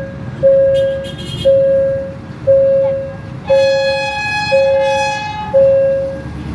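Railway level-crossing warning bell ringing once a second, each ding fading, over a steady low rumble, with a train horn sounding for about two seconds midway.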